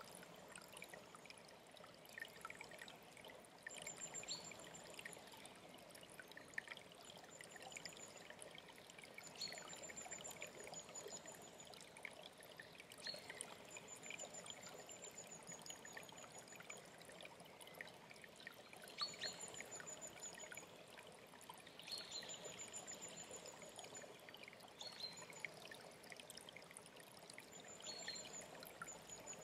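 Faint, steady trickling of a mountain stream, with small birds singing over it: a thin, very high trill that comes back every few seconds and short falling whistles.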